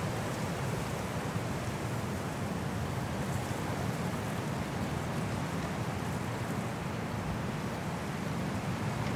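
Strong wind blowing steadily through trees in a snowstorm, a continuous low rushing noise with no gusts or breaks.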